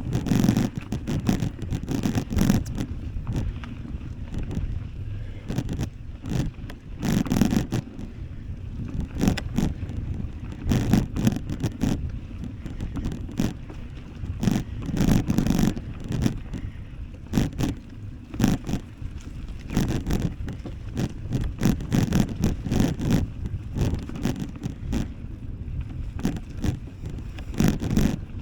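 Bicycle riding over a bumpy trail, heard from the moving bike: an uneven low rumble of wind on the microphone, with frequent short rattles and clicks from the bike jolting over the ground.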